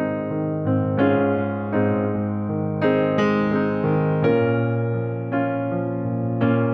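Slow piano music, with notes and chords struck about once a second and left to ring and fade.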